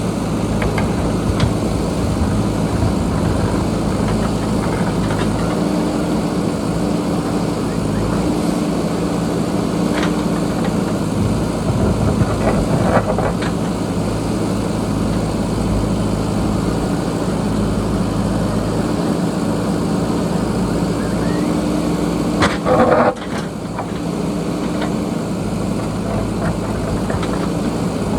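JCB backhoe loader's diesel engine running under varying load as it digs, its pitch and strength rising and falling, with a few knocks and a louder clatter near the end.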